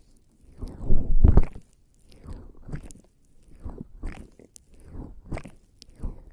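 Bare skin slathered in lubricating jelly rubbing and squishing over the microphone's ears: irregular sticky, wet strokes, the loudest about a second in, then smaller ones about every half second.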